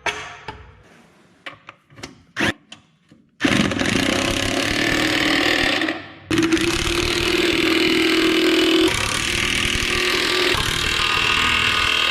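A few scattered knocks and clanks, then a power tool running loud and steady on metal from about three and a half seconds in, with a brief letup near six seconds.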